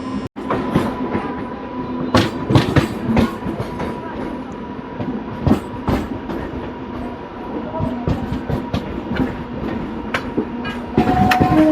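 Indian Railways passenger train running, its wheels clicking irregularly over rail joints under a steady rumble. The train horn starts sounding near the end.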